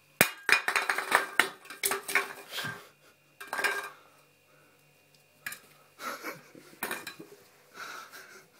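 Small hard objects clattering and knocking in quick runs of clicks. There is a long run at first, a short burst near the middle, and more clattering over the last three seconds.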